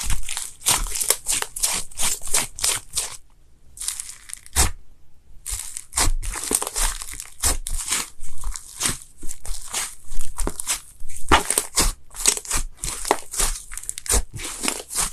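Slime being squeezed and worked by hand, giving dense, irregular crackling with a short pause about a third of the way in.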